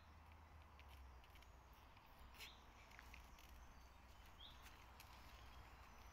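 Quiet woodland ambience: a few faint short bird calls over a low background rumble, with scattered light clicks.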